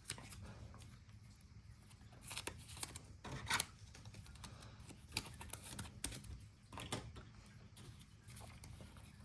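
Trading cards being handled and flipped through by hand: faint scattered clicks and rustles of card stock, with a few louder clicks between about two and four seconds in, over a low steady hum.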